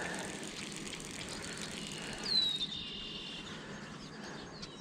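A single bird call about two seconds in, a short falling whistle that levels off, over faint steady outdoor background noise.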